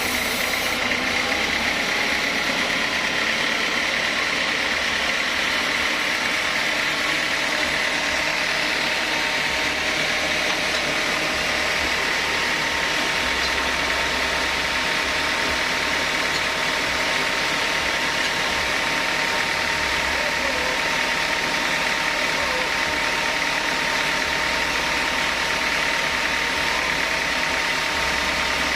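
Sawmill machinery running with a steady, unbroken mechanical drone and a constant high whine.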